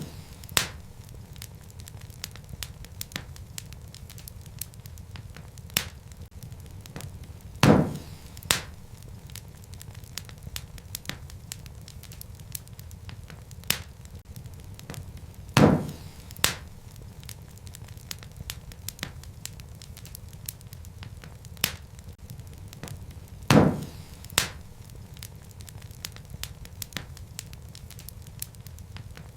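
Wood fire crackling in a fireplace: a steady low rumble of flames with many small crackles throughout. Three times, about eight seconds apart, a loud pop comes with a smaller pop just after it.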